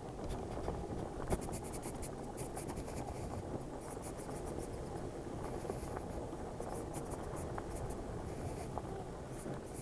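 Steady low wind and road rumble picked up by a helmet microphone while riding an electric motorcycle, with many short scratchy clicks and rubbing on the microphone; no engine note.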